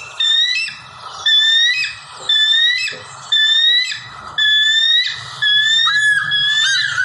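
Birds calling: a run of short whistled notes, each sliding upward, about two a second and overlapping one another.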